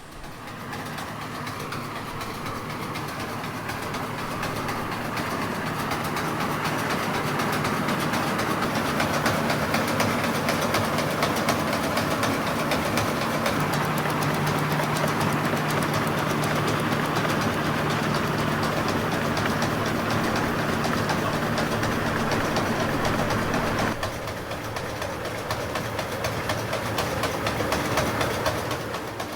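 An engine running steadily under a loud mechanical rattle, building up over the first several seconds. The engine note drops out about 24 seconds in, while the rattle carries on until the sound fades near the end.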